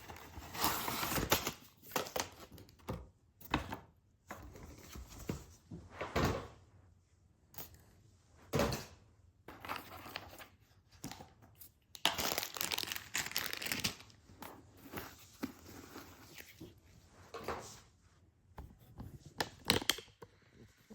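Toy box packaging being torn open and crinkled by hand, in irregular bursts of rustling and tearing with short pauses between.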